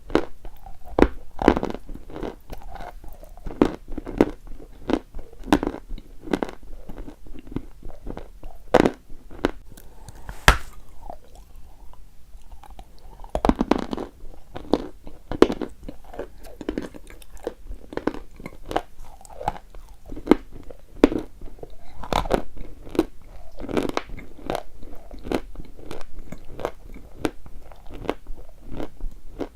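Close-up crunching and chewing of hard, brittle chalk, bite after bite, with a short lull a little before halfway.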